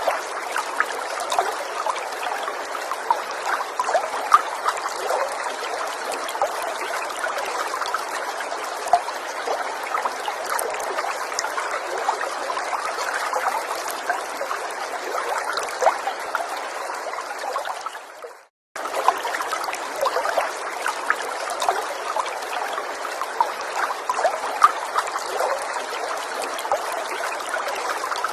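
Gentle forest stream trickling steadily, with many small splashes and gurgles. About eighteen seconds in, the sound fades out to a moment of silence and then comes straight back.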